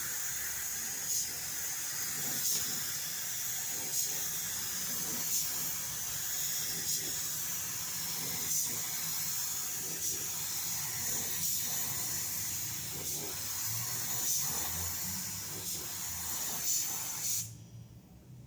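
Compressed-air paint spray gun spraying: a steady hiss with slight swells about every second and a half. It cuts off abruptly near the end.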